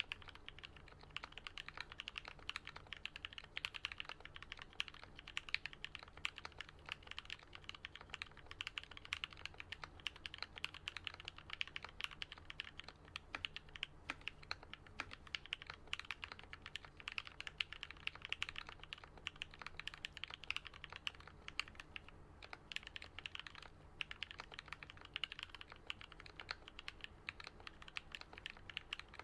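Steady, fast typing on a Switch Couture Alice-layout custom mechanical keyboard fitted with lubed and filmed Gateron Yellow linear switches and lubed Durock stabilizers: a dense, continuous stream of key clacks, the deep keystroke sound typists call "thock", with a couple of brief pauses about two-thirds of the way through.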